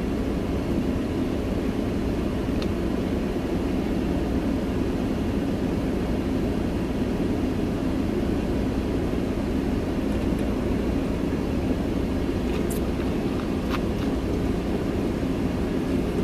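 Steady running noise inside a semi-truck's cab, with the engine and the air conditioning on, at an even level throughout, with a couple of faint clicks near the end.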